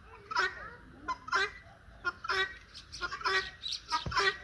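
Domestic turkeys calling: a run of short, pitched calls, about one or two every second.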